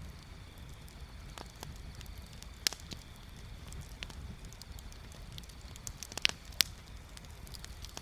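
Wood bonfire crackling, with irregular sharp pops and snaps; the loudest come about two and a half seconds in and twice in quick succession near six and a half seconds. Under them runs a steady low rumble.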